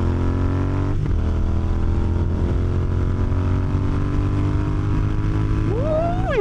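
Motorcycle engine accelerating through the gears, its pitch climbing steadily after an upshift about a second in. Near the end a short whine rises and then falls away.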